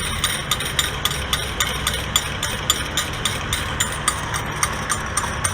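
Car wash change machine paying out quarters: coins clink into the metal tray in a fast, steady run of about four a second over the low hum of the machine.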